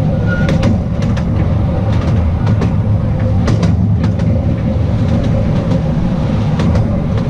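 Narrow-gauge Artouste train running: a steady rumble of wheels on rail with a faint whine, broken by irregular clicks as the wheels pass over rail joints.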